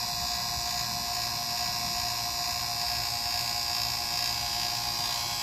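HVAC vacuum pump running steadily, evacuating a mini split's refrigerant lines, an even hum with a steady high whine.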